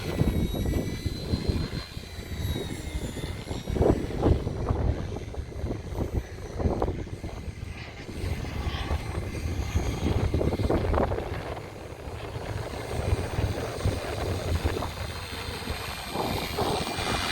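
Hirobo Lepton EX radio-controlled helicopter in flight: rotor chop with a high whine that rises and falls in pitch as it manoeuvres.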